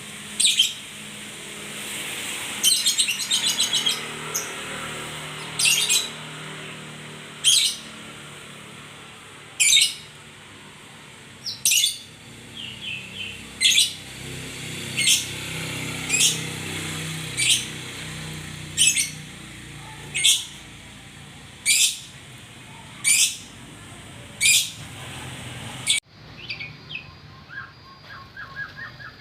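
A murai songbird calling: short, sharp, high notes repeated about every one and a half seconds, with a rapid trill near the start. About 26 s in, the sound cuts abruptly to a quieter birdsong recording.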